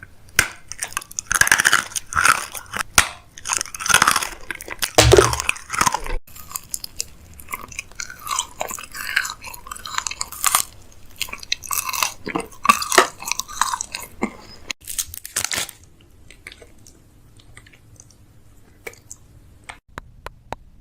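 Close, crisp crackling and crunching of items being handled, dense for about six seconds, then sparser, dying down about fifteen seconds in to a few faint ticks.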